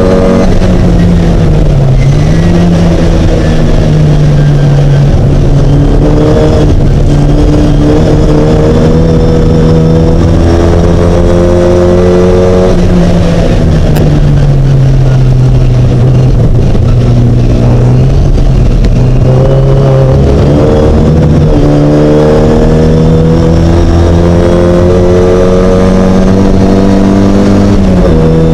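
A Mini's engine running without a break, its revs sinking and climbing slowly several times.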